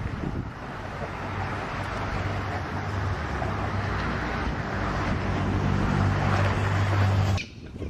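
Steady vehicle noise: a low engine hum over a rushing haze, growing slightly louder and then cutting off abruptly near the end.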